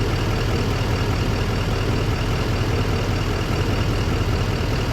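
Vehicle engine idling steadily: a low, even hum with a constant wash of noise over it.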